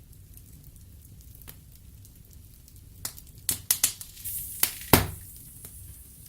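Wood fire crackling in a fireplace: a low steady rumble of burning logs broken by sharp pops. A quick run of loud cracks comes from about three to five seconds in, with a brief hiss among them, and the loudest crack is near the end of that run.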